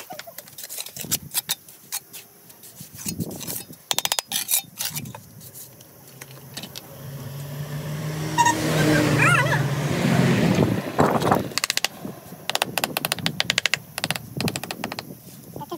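A motor vehicle passing by, growing louder to a peak near the middle and then fading, among repeated sharp taps and clicks.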